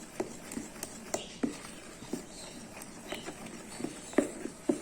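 Irregular light knocks and clicks of kitchen utensils being handled while preparing corn cake batter, two sharper knocks near the end.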